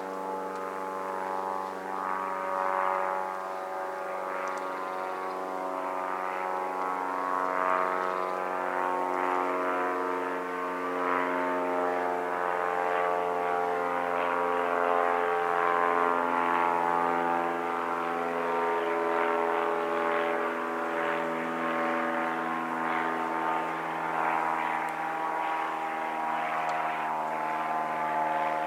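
An engine drones steadily, its pitch drifting slowly down and back up without a break.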